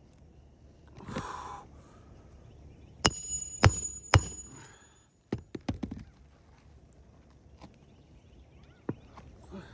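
Roofing work: a short scrape about a second in, then three sharp metal-on-metal hammer blows about half a second apart with a high ring after them, then a scatter of lighter taps and clicks.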